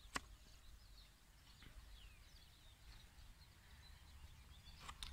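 Near silence with faint, scattered bird chirps over a low background rumble.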